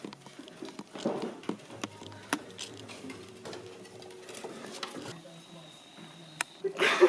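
Scattered light clicks, taps and scratches, irregular and close together, of a dachshund puppy working at a small metal sardine can.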